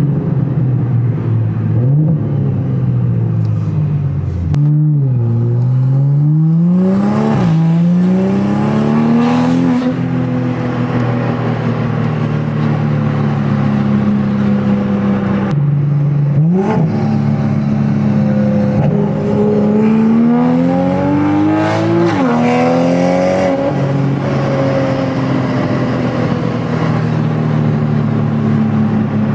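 Straight-piped exhaust of a 2020 Toyota Supra's B58 turbocharged inline-six under acceleration. The pitch rises through each gear and drops sharply at each upshift, in two pulls, and holds steady while cruising between the pulls and near the end.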